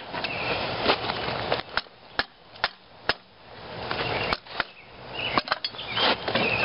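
Irregular sharp metal-on-metal knocks and clanks from blacksmith's work on a hot, freshly twisted railroad spike, about a dozen strikes over a steady rushing background noise.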